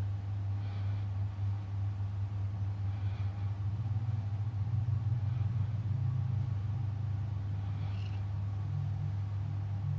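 Steady low engine rumble, a deep hum that swells a little midway, with faint hissy patches recurring every two to three seconds.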